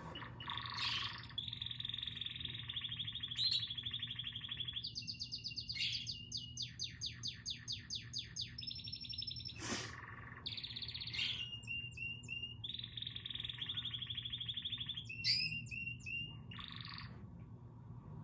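A songbird singing a varied song: long, buzzy trilled phrases with breaks between them, and a run of quick repeated notes a little before the middle.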